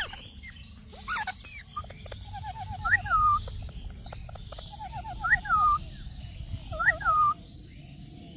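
Parrot chirping and whistling in a repeating phrase: a quick trill followed by a whistle that rises and then falls, recurring about every two seconds.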